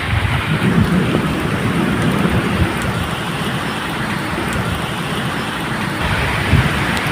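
Steady medium rain falling, with a low, uneven rumble of thunder underneath.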